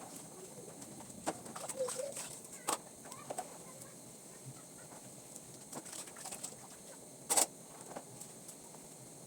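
A bird, likely a domestic fowl, gives a short clucking call about two seconds in, among scattered light knocks and clicks; the sharpest click comes near the end.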